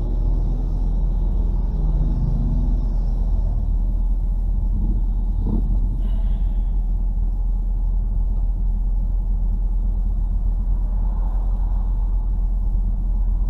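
Steady low rumble of road traffic heard from inside a stopped car, with a brief sharper sound about five and a half seconds in.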